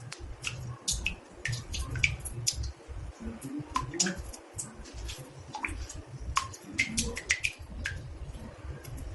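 Water drops falling into a bathtub: irregular plinks, two or three a second, each with a short ringing pitch, over a low steady rumble.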